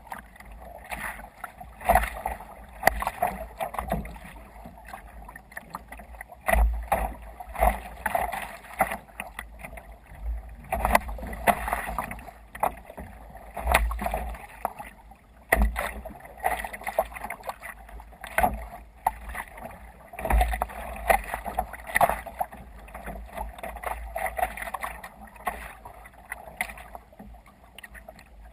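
Water splashing and sloshing against a sea kayak's hull as it moves through waves, in irregular surges every second or two with low thumps under them.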